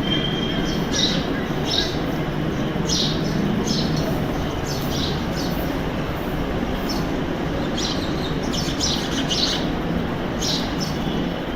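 House sparrows giving short, sharp chirps in scattered clusters, thickest between about seven and ten seconds in, typical of a squabble between sparrows. Under the chirps runs a steady rumbling background noise.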